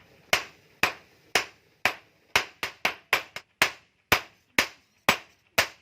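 Hammer blows on metal as bearing steel is forged into a blade: sharp, ringing strikes about two a second, with a quicker run of blows in the middle.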